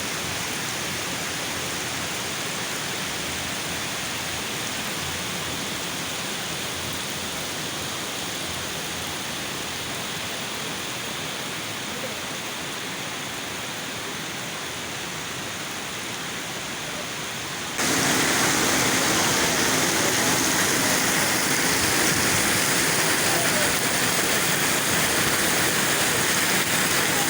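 Steady rain falling, a continuous even hiss. About two-thirds of the way through it cuts abruptly to a louder, brighter rain sound.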